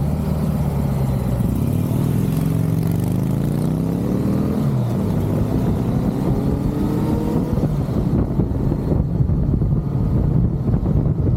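Motorcycle engine accelerating, its pitch rising, dropping at a gear change about four and a half seconds in, then rising again, with wind rush on the microphone near the end.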